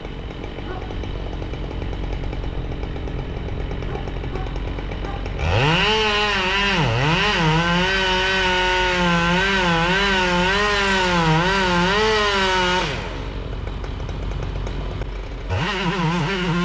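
A chainsaw runs low at first. About five seconds in it is revved up and held at high speed for about seven seconds, its pitch dipping and wavering as it works through wood. It then drops back to a low run and revs briefly again near the end.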